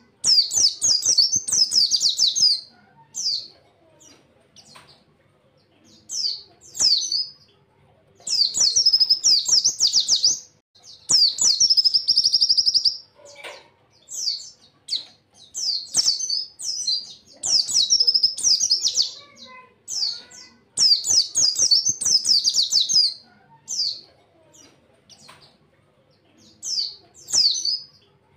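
A white-eye (pleci) singing: repeated bursts of rapid, high twittering warble a second or two long, with short pauses between them, and a longer steady trill about eleven seconds in.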